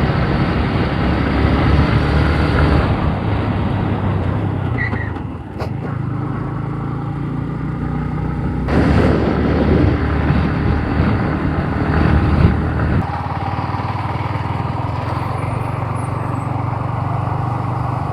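Motorcycle engine running steadily on the road while riding, under a constant rush of noise, briefly louder about halfway through.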